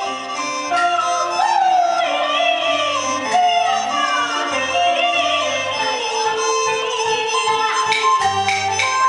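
Taiwanese opera accompaniment music: traditional instruments play a flowing melody with gliding notes, and sharp percussion strikes come in about eight seconds in.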